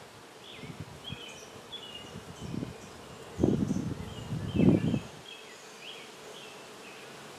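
Honeybees buzzing around an open hive, a steady hum, with two louder low rumbles about three and a half seconds in.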